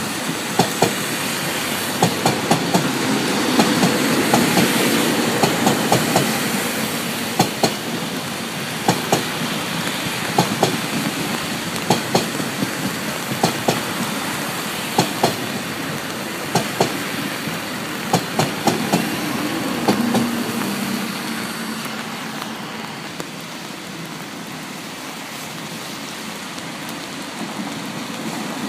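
TGV Duplex double-deck high-speed train rolling past, its wheels clacking in regular clicks over the rail joints. The rumble dies away about twenty seconds in.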